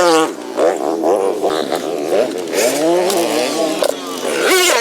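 Dirt bike engine revving up and down over and over, its pitch rising and falling every second or so as it is ridden.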